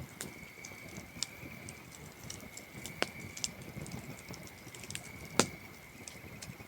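Wood campfire burning down to embers, crackling with scattered sharp pops, the loudest about three seconds in and again near the end. Under it runs the steady high trill of crickets.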